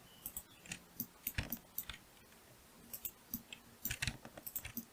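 Scattered, irregular keystrokes and clicks on a computer keyboard, light taps with short pauses between them.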